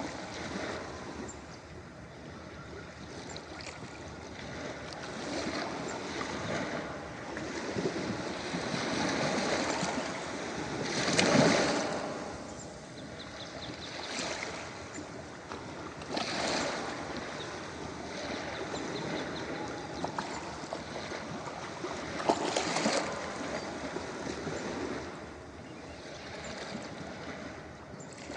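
Ocean waves breaking and washing up a beach, a steady rush of surf that swells with each wave; the loudest wave breaks about eleven seconds in, with smaller surges after it.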